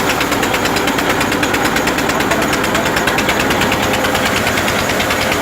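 Tractor diesel engine running steadily with a fast, even beat, driving a tractor-powered flour mill (atta chakki).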